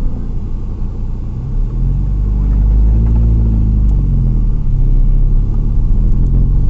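Car engine running while driving off-road, over a low rumble. Its pitch climbs about two seconds in, eases back a couple of seconds later, then holds steady.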